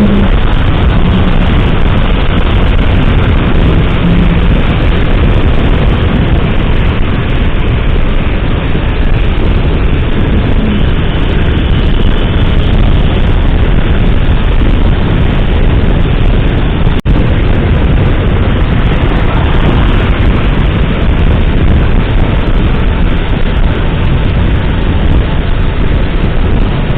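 Steady wind rush buffeting the microphone of a moving motorcycle, with road and traffic noise beneath. The sound drops out briefly about two-thirds of the way through.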